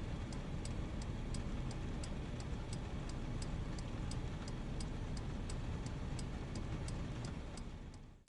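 Car indicator relay ticking evenly, about three ticks a second, over the steady low rumble of a vehicle. It fades out near the end.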